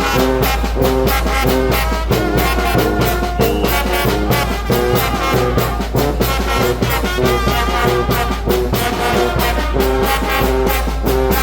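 Brass band playing a lively tune, with horn melody over steady percussion beats.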